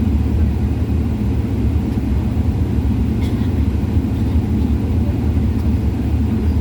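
Steady low rumble of an airliner's engines and airflow heard inside the cabin.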